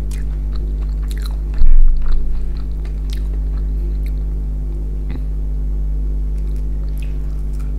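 Close-up mouth sounds of chewing pan-fried fish, with small clicks and crunches, over a steady low hum. A single louder low thump comes about a second and a half in.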